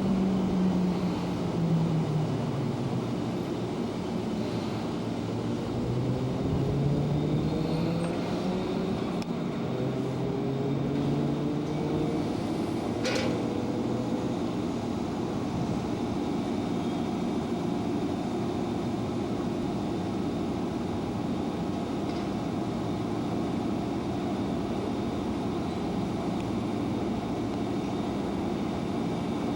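Electric commuter train's traction motors whining. The pitch falls over the first few seconds, then climbs steadily as a train picks up speed, with a sharp click about halfway through and a steady rumble of running gear after that.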